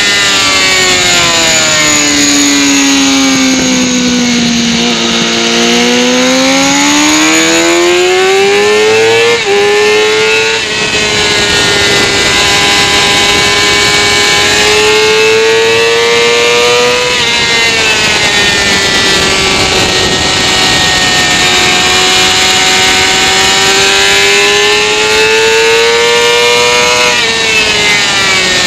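Sport motorcycle engine at high revs: the pitch falls as the bike slows, climbs hard under acceleration, and breaks sharply at quick upshifts about a third and two thirds of the way through, then drops away near the end. Heavy wind rush on the microphone runs underneath.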